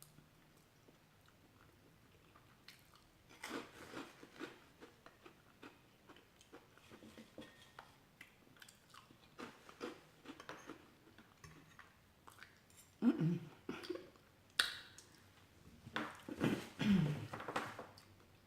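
Close-miked chewing and mouth sounds of a person eating, coming in scattered spurts after a quiet first few seconds, loudest in the second half.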